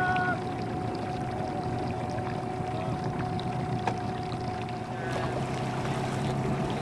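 A boat's motor running steadily over wind and water noise, with a lower hum coming in about five seconds in.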